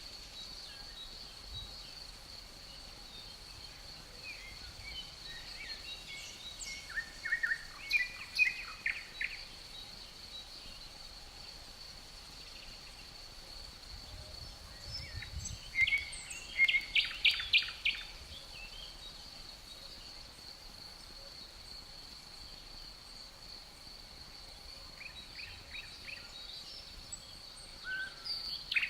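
Forest ambience: a steady, high-pitched cricket trill throughout, with songbirds breaking in with bursts of quick chirping notes, a few times; the loudest burst comes about halfway through.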